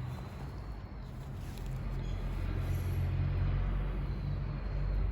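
Low, steady outdoor rumble, growing louder about two seconds in.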